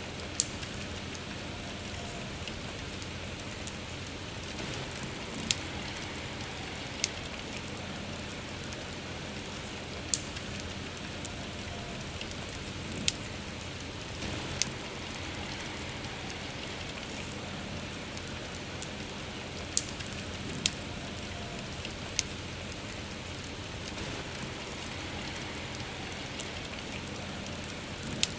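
Steady, soft rain falling, with sharp pops from a crackling bonfire every few seconds at irregular intervals.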